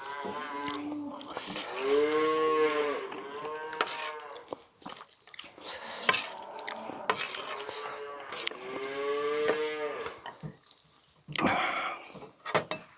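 A cow mooing twice: two long calls, each about three to four seconds, rising and then falling in pitch. Short clicks in between and near the end sound like eating noises close by.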